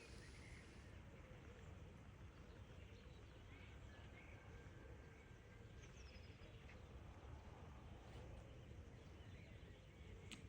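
Faint birdsong: scattered short chirps and whistled notes from small birds over a steady low background rumble.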